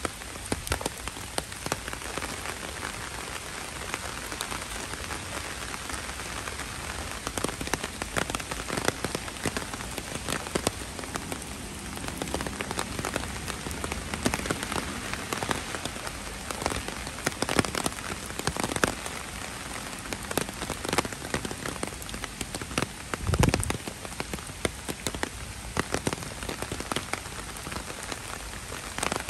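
Heavy rain falling steadily and splashing on wet ground, with frequent sharp drop hits close by. There is one louder thud about three quarters of the way through.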